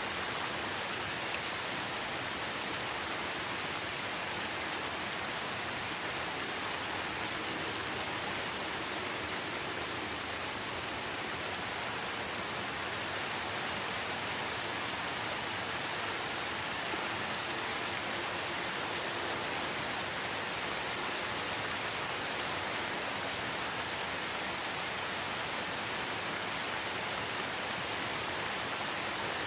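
Steady rain falling, an even dense hiss with no let-up.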